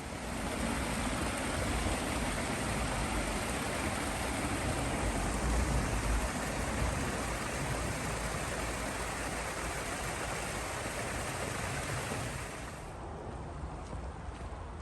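Steady rushing noise with an uneven low rumble; the high hiss drops away about thirteen seconds in.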